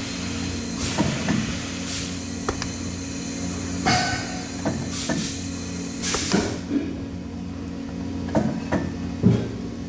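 Steady industrial machinery hum in a metalworking workshop, broken by irregular metal clanks and knocks and several short bursts of hiss.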